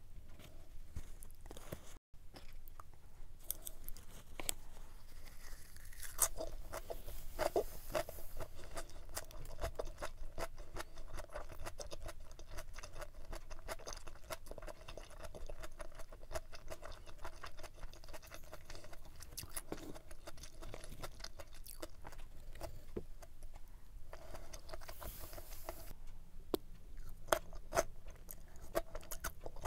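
Close-miked chewing of stir-fried pork intestines (yachae gopchang) and rice balls, a dense run of small mouth clicks, with a slurp of a noodle strand near the end.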